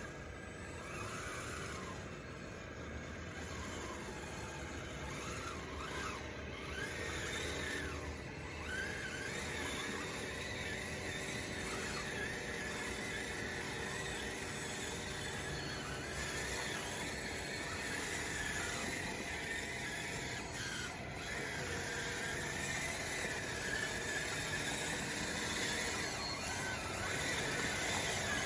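Radio-controlled bulldozer's electric drive motors and gears whining, the pitch rising and falling again and again as it drives and pushes dirt.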